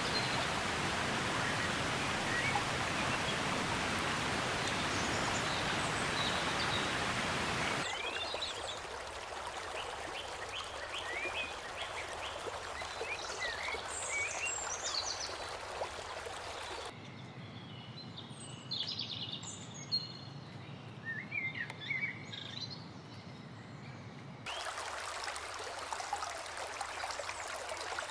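Forest ambience cut together from several clips. A steady rush of running water gives way to small birds chirping and calling in short, quick notes over a quieter background. The water-like rush returns near the end.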